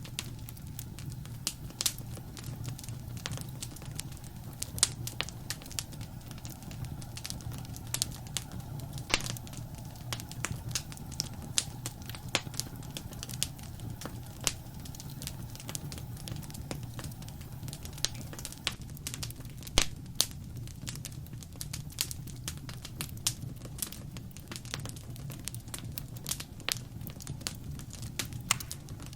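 Wood fire crackling in a fireplace: dense, irregular pops and snaps, a few of them louder, over a steady low rumble.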